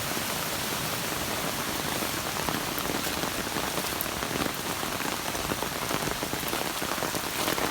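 Heavy rain falling hard and steadily, with sharp individual drop hits standing out more often from a few seconds in.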